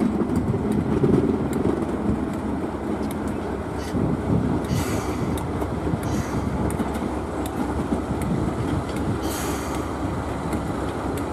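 Train running along the track: a steady rumble of wheels on rails, with two short hisses, about five seconds in and again near the end.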